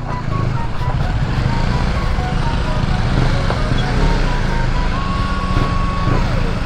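KTM motorcycle engine running steadily at low speed on a rough dirt road, heard from the rider's seat.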